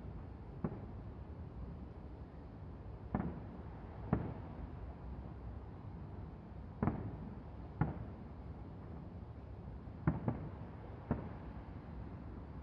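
Fireworks bursting at a distance: about eight dull booms at irregular intervals, two of them close together about ten seconds in, over a steady low rumble.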